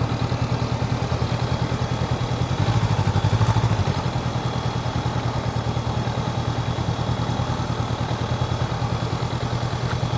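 Motorcycle engine running steadily on the move, a fast-pulsing low drone that picks up briefly about three seconds in.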